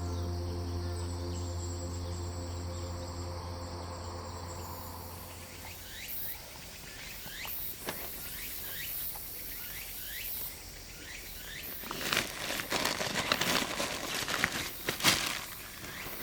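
Soft ambient music with sustained tones fades out in the first few seconds. Short falling chirps follow, repeating about once a second. From about twelve seconds in, loud irregular rustling and scraping of camping gear being handled takes over.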